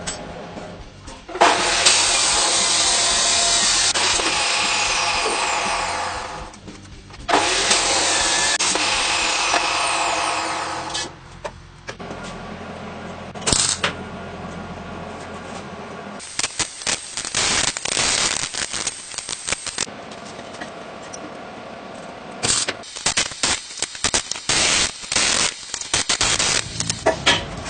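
A power tool runs in two long stretches of several seconds each, then in many short bursts.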